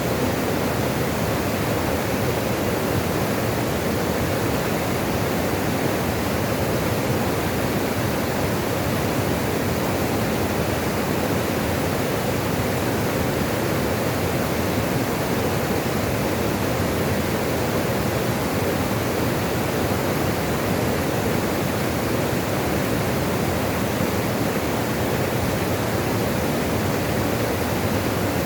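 Steady, unbroken rush of running water, with no splashes or changes standing out.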